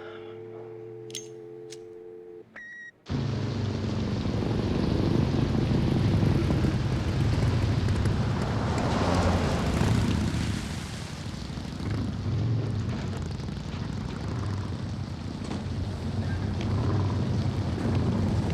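A telephone dial tone humming steadily after the caller hangs up, cut off with a click about three seconds in. A loud, steady, rumbling roar then starts abruptly and carries on.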